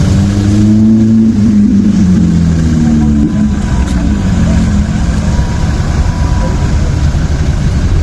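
A performance vehicle's engine revving, its pitch climbing over the first second and then falling away, after which it settles into a steady low rumble.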